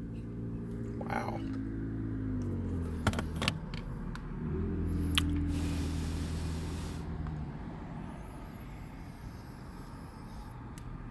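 Car engine running, its pitch dropping early on, then swelling and easing off again, with a few sharp clicks about three and five seconds in and a short hiss in the middle.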